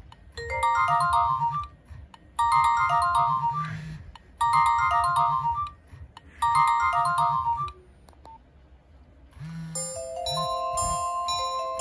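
Nokia 1112 mobile phone playing a short ringtone phrase of quick beeping notes, repeated four times with short gaps. After a brief pause, a different melody of longer held notes starts near the end.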